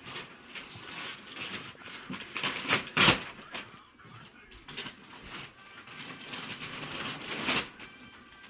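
Wrapping paper and a cardboard box rustling and tearing as a large gift box is unwrapped, with a sharp knock about three seconds in.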